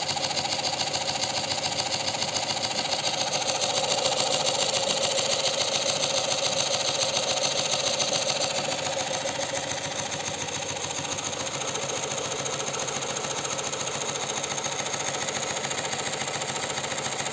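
Small electric-motor-driven engine setup running steadily with a fast, even mechanical clatter. It gets slightly quieter about nine seconds in and then runs on steadily.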